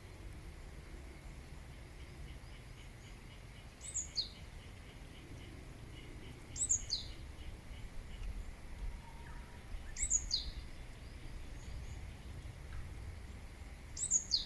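A wild bird calling: a short, high note that drops sharply in pitch, repeated four times about three to four seconds apart. Fainter rapid chirping sits underneath, over a steady low rumble of outdoor background noise.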